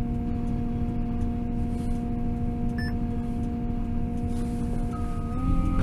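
Cat 322 wheeled excavator's diesel engine running steadily with an even hum. Near the end its pitch steps up slightly and it grows louder, and a steady beep tone starts.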